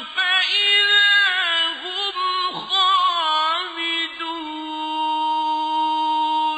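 Melodic Quran recitation by a single high male voice, drawing out a phrase with gliding ornaments and settling into a long held note that breaks off near the end and fades out.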